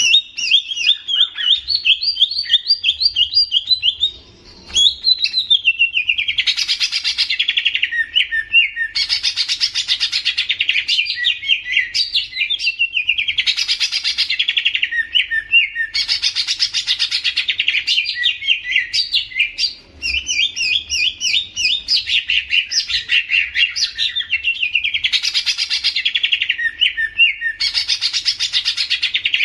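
A songbird singing a fast, unbroken song of rapid high chirps, with a louder trilled phrase returning about every two and a half seconds and two short breaks.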